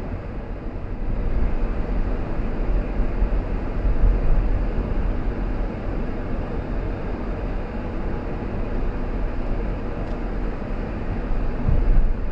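A car on the move: steady road and engine noise, heaviest in a low rumble.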